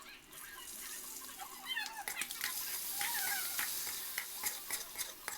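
Eggs frying in hot oil in a pan: a sizzling hiss with crackling pops that swells about two seconds in. A few short squeaky chirps sound over it.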